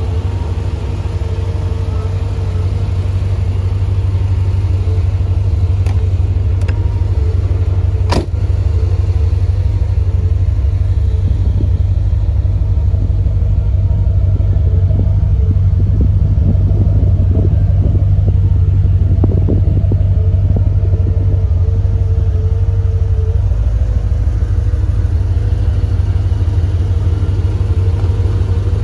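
1989 Chevrolet Corvette's V8 engine idling with a steady low rumble. There is a single sharp click about eight seconds in.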